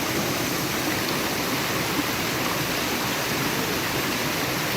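Rocky stream rushing over rocks in a steady, even rush.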